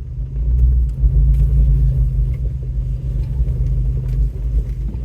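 Off-road vehicle driving along a rough trail: a steady low engine and drivetrain rumble, with a few faint knocks and rattles.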